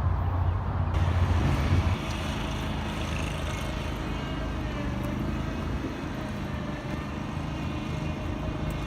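Steady rumble of vehicle noise, with a strong low hum that falls away about two seconds in.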